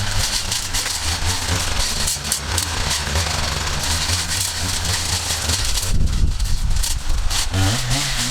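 Small petrol engine of yard equipment running steadily under a dense hiss. About six seconds in the low rumble swells and the hiss drops away for about a second.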